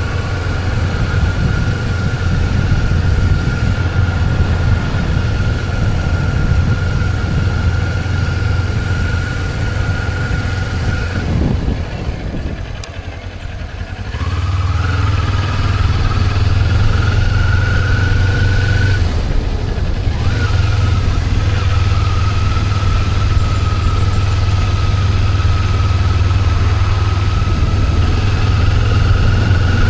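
Motorcycle engine running steadily on the move, with a thin high whine over it. About twelve seconds in, the engine eases off for a couple of seconds, then pulls again and holds a steady speed.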